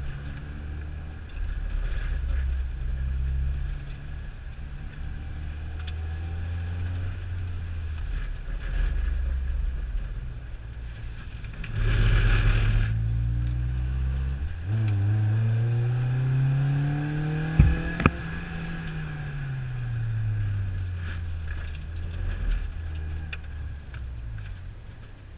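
A vehicle engine running, its pitch climbing about halfway through and then easing back down. There is a brief rush of noise before the climb and two sharp knocks near its peak.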